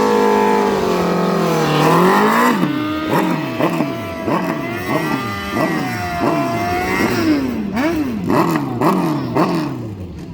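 A drag-racing engine held at high revs, then launching and accelerating hard, its pitch climbing and dropping again and again through a quick series of gear changes.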